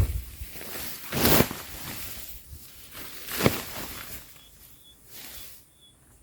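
Irregular rustling and scuffing that swells a few times, loudest about a second in and again past the middle, with a few faint high chirps near the end.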